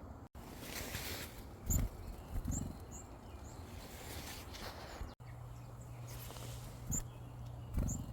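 Short, high chirps of small wild birds over faint outdoor background noise, with a few dull low thuds, the loudest a little under two seconds in and near the end.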